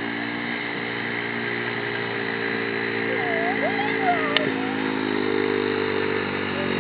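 Small child's dirt bike engine running steadily, its pitch rising a little about five seconds in.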